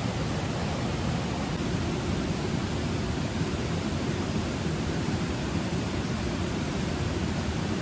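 Steady, unbroken rush of water noise, heavier in the low range, with no separate drops or splashes standing out.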